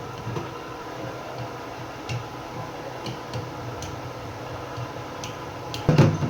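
Scattered light clicks and taps from handling plastic RO water purifier parts, with a louder clatter of several knocks near the end, over a steady background hum.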